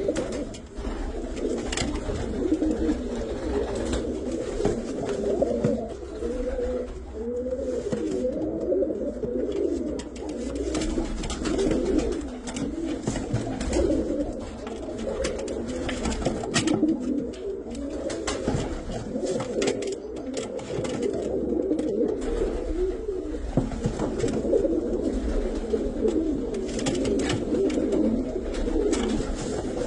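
A flock of Serbian highflyer pigeons cooing, many birds at once in an overlapping, continuous chorus, with frequent short clicks among the calls.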